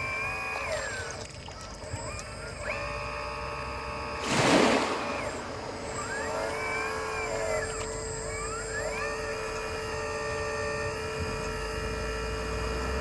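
Hydraulic pump of an RC excavator whining as its arm and bucket are worked; the pitch rises, holds and drops again several times as the controls are moved, over a steady hum. A loud, brief rush of noise about four seconds in.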